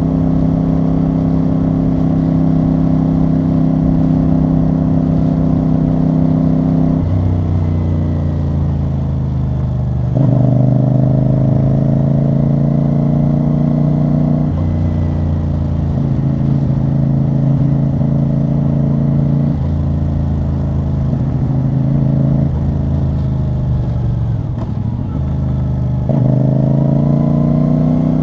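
CFMoto CL-C 450 parallel-twin motorcycle engine and exhaust under way, holding steady notes that jump abruptly to new pitches several times, as with gear changes and throttle changes. Near the end it drops and then builds again as the rider eases off and accelerates.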